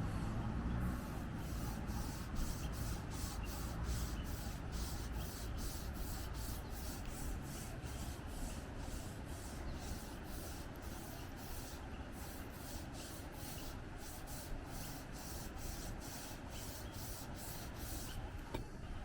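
Watercolor pencil scribbling back and forth on Yupo synthetic paper, about two to three strokes a second. Wind rumbles on the microphone underneath.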